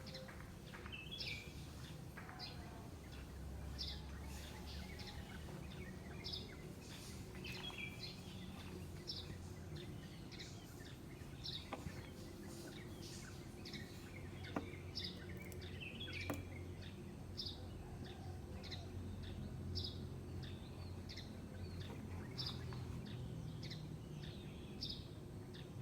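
Birds chirping, short high calls repeating about once a second, with a few lower calls mixed in, over a low steady background rumble. A few sharp clicks come in the middle.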